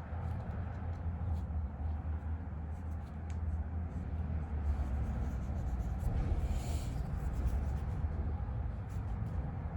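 Paintbrush strokes, scratching and dabbing close to the microphone, with a brief hissy stroke about six seconds in, over a steady low rumble.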